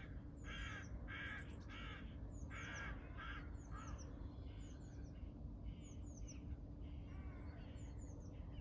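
A crow cawing in a quick series of about six harsh caws over the first three seconds, then fainter, while a small songbird keeps giving short high chirps throughout.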